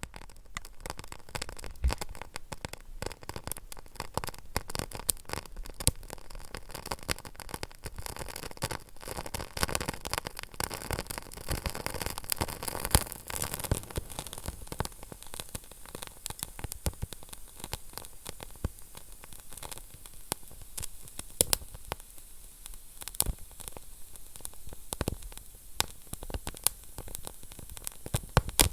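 Wood fire burning in a fireplace: a steady hiss under constant crackling, with a few louder sharp pops.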